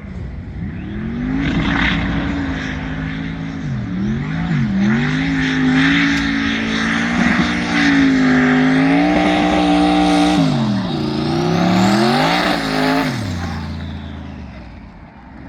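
A high-revving racing engine at full throttle: its note climbs and holds high, dips sharply twice about four seconds in, and drops again twice later on. Near the end it falls in pitch and fades away.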